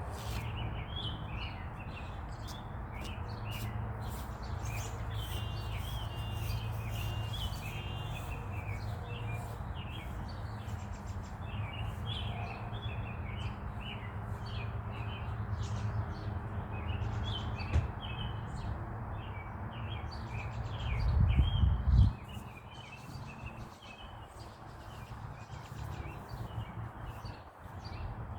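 Many small birds chirping continuously, over a steady low rumble. About twenty seconds in the rumble swells louder for a couple of seconds, then cuts off suddenly.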